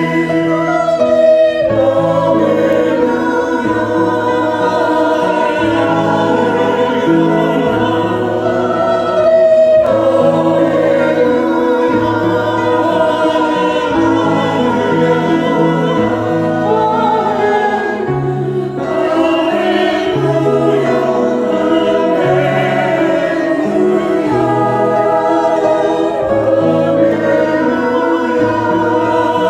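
Choir singing a hymn or anthem with instrumental accompaniment, the bass line moving in held steps.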